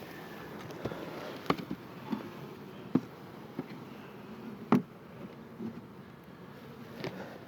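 Honey bee swarm buzzing while it is dropped from a limb into a wooden hive box, with several sharp knocks of the box and limb being handled, the loudest a little past the middle.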